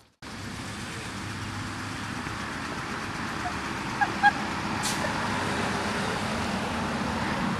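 Steady running noise of a car, slowly getting louder, with a few faint short chirps about four seconds in.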